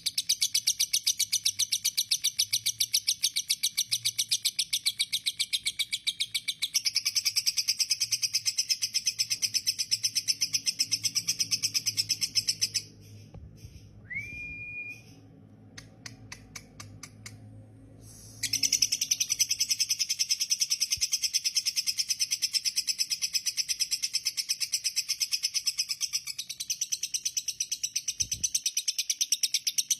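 Lovebird singing a long, unbroken, very fast chatter of high notes, the continuous 'konslet' song. The run breaks off for about five seconds in the middle, where there is a single short rising whistle and a few clicks, then starts up again.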